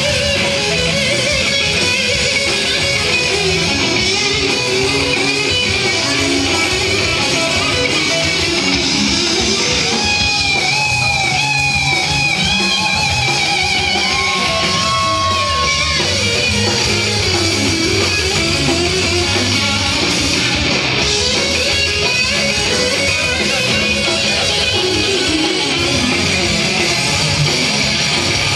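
Live hard-rock band playing at full volume with electric guitar up front. Around the middle, the lead guitar plays a run of bending notes and then holds one high note for a couple of seconds.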